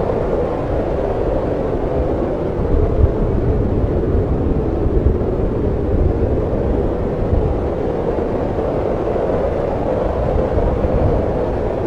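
Snowstorm wind blowing steadily: a low rushing rumble that swells slightly in gusts.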